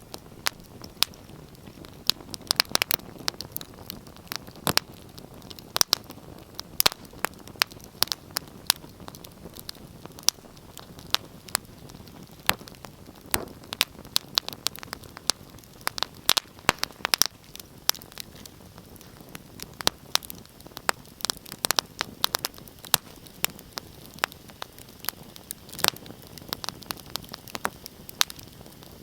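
Wood fire in a fireplace crackling and popping, with sharp irregular pops over a steady low hiss.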